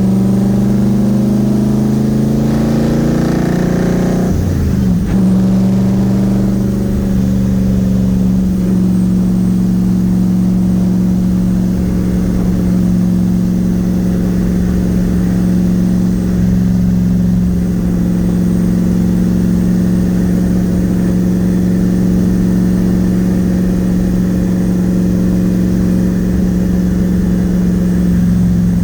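Twin-turbo Nissan VK56 V8 in a 300ZX driving at light throttle: the engine note climbs for about four seconds, drops sharply as it shifts up, then settles into a steady cruise.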